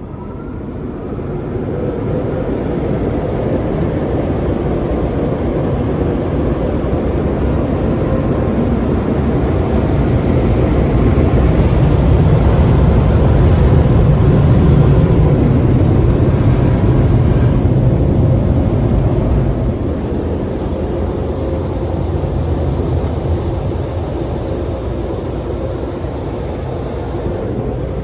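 Coleman Hanna HES car wash dryer blowers running: a loud, steady rush of air with a fan hum. It builds over the first couple of seconds, is loudest around the middle, then drops back a little about two-thirds of the way through and holds steady.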